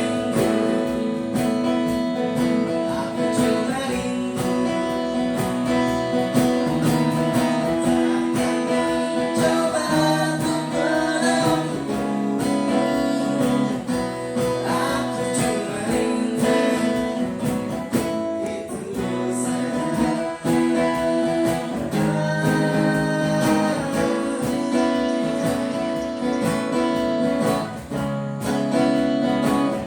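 Acoustic guitar strummed and plucked, with a voice singing over it in places: an acoustic cover of a pop song.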